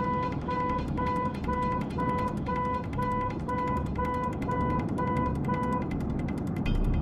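Repeated electronic beeping, one steady pitch at about two beeps a second, that stops about six seconds in, over a low steady rumble.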